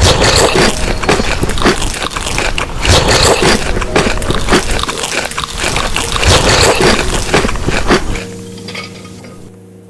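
Close-miked chewing of crunchy food, a dense run of loud crunches. Near the end the chewing fades out and steady held musical tones take over.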